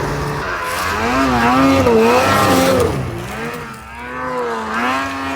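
Snowmobile engine revving up and down as the machine ploughs through deep fresh snow, its pitch rising and falling in waves.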